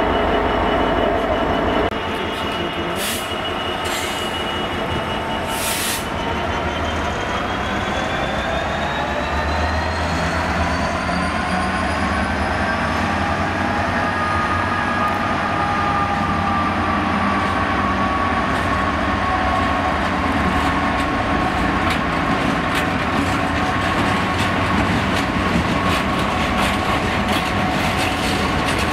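Class 66 diesel freight locomotive, with its two-stroke V12 engine, pulling a train of wagons past: the engine note rises over several seconds as it throttles up, then holds steady, over the rumble of the wagons on the rails. A few sharp clanks come in the first six seconds.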